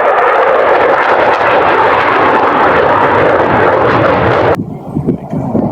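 Loud, steady jet noise from a Thunderbirds F-16 fighter flying past. It cuts off abruptly about four and a half seconds in, leaving a quieter low rumble.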